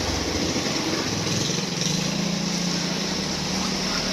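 A small motor running steadily under a constant hiss.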